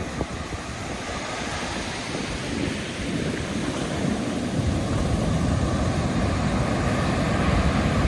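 Ocean surf washing onto a beach, a steady rushing that swells louder with a deeper rumble about halfway through.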